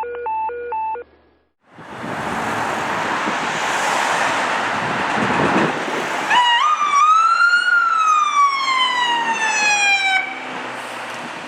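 Electronic siren on a 2018 Ford Expedition fire chief's vehicle sounding a wail: the pitch climbs sharply, then falls slowly for about four seconds and stops. Before it come a second of short electronic beeps, then loud rushing noise for several seconds.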